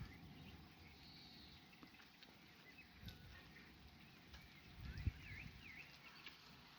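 Near silence with faint bird chirps, short quick up-and-down calls. A brief low thump comes about five seconds in.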